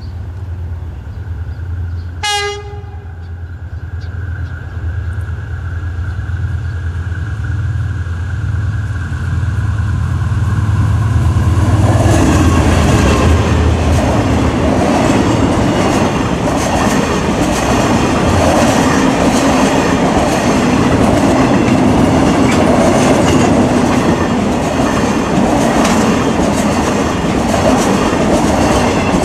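Diesel freight train approaching, its locomotive engine droning steadily, with one short horn blast about two seconds in. From about twelve seconds in, a long line of tank wagons rolls past close by, wheels clattering on the rails.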